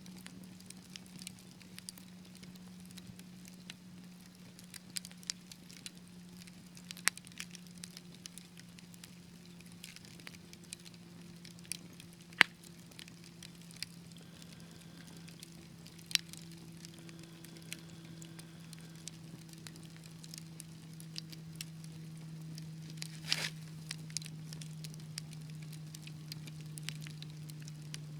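Wood fire in a fireplace crackling, with irregular small snaps and a few louder pops. A low steady hum runs underneath, slowly dropping in pitch.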